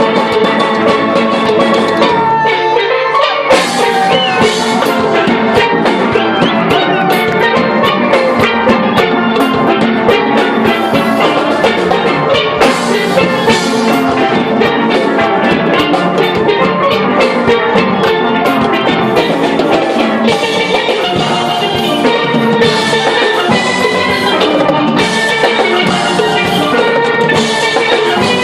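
Steel band playing: steelpans ring out a tune over a steady drum beat.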